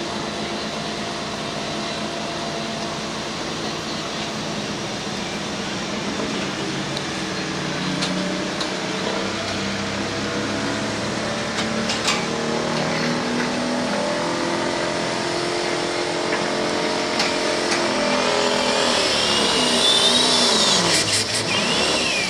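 Pro stock diesel pulling truck running hard under load down the pulling track, its engine getting steadily louder. Near the end the engine and a high turbo whistle wind sharply down in pitch as the driver lets off.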